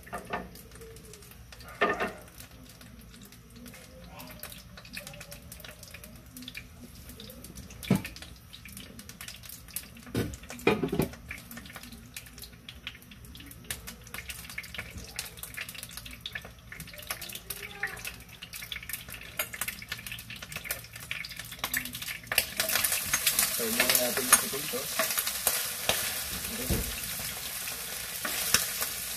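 Boiled potato cubes frying in hot oil in a granite-coated frying pan: a loud sizzle starts suddenly about 22 seconds in and keeps on while a metal spatula stirs them. Before that, the oil heats with only a faint hiss and a few scattered knocks.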